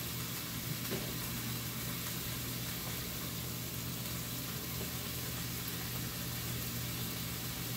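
Chicken and vegetables frying in a skillet on a gas burner: a steady, even sizzle with a steady low hum underneath.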